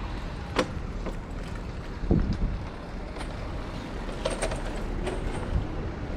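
Steady low wind and road rumble while riding a Super73 S2 electric bike over city streets. A sharp click comes about half a second in, a heavier thump about two seconds in, and a few lighter clicks follow.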